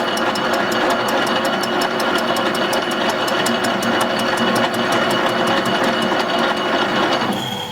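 Metal lathe taking an intermittent cut across a locomotive connecting rod held offset in the chuck. The tool strikes the work once per turn, giving a regular ticking about four to five times a second over a steady cutting noise, and the cut stops near the end.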